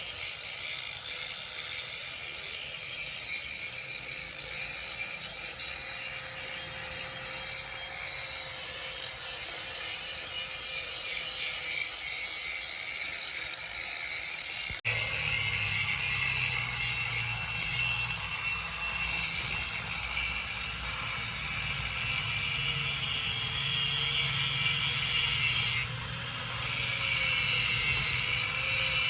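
Steady scraping, hissing metalworking noise from tools at work on steel parts. It breaks off abruptly about halfway and resumes with a slightly different tone.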